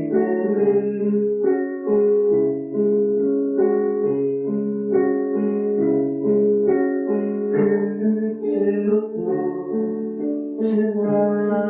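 Instrumental passage of a live song: sustained keyboard chords changing about once a second, with no singing.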